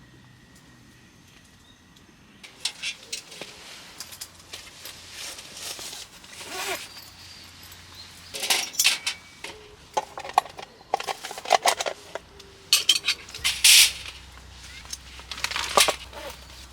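Tableware clinking and clattering against dishes and a pot in irregular bursts, as in eating a meal. It starts about two seconds in, after a quieter stretch.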